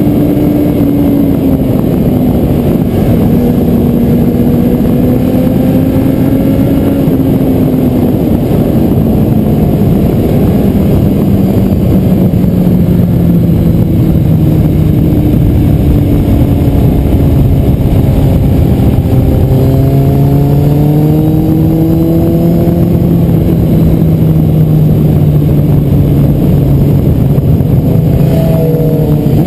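Kawasaki Z750's inline-four engine running under way. Its pitch falls slowly over the first half as the revs drop, then holds steady with slight rises later on, under loud wind rush on the action-camera microphone.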